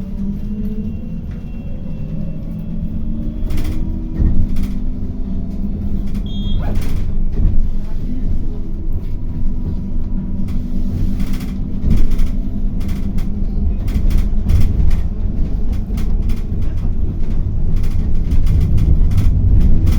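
City bus driving, heard from inside: a rising whine as it gathers speed levels off just after the start, then a steady low rumble with scattered knocks and rattles.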